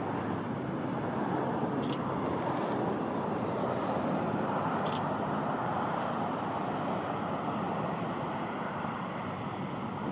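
Jet aircraft engine noise: a steady rushing sound that grows a little louder over the first few seconds and eases toward the end.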